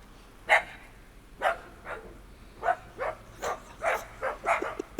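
A dog barking: a series of about nine short, sharp barks at an uneven pace, the first about half a second in being the loudest.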